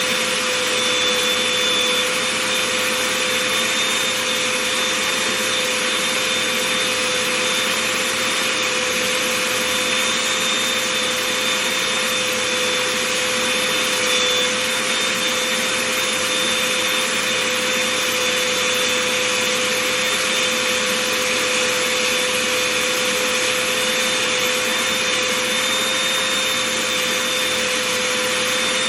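Vacuum cleaner running steadily, a constant hiss with a steady whine, as it is run over fuzzy slippers.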